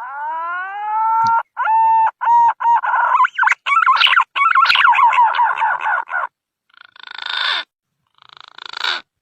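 Green pigeon (punai) call used as a hunting lure. A long whistled note rises, then breaks into a run of short whistles and quick falling notes, and ends with two harsh, rasping bursts.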